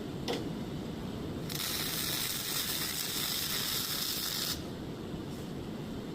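MIG welding arc on thick mild steel: a steady crackling hiss that starts about a second and a half in and stops after about three seconds. A single short click comes just after the start.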